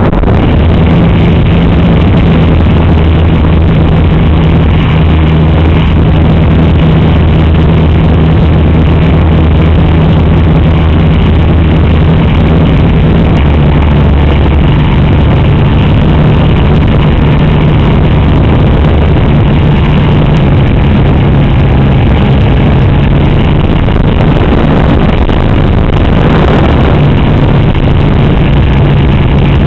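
Loud, steady rush of air buffeting the microphone of a camera riding on an RC model plane in flight, with a low droning hum underneath that shifts pitch slightly about halfway through.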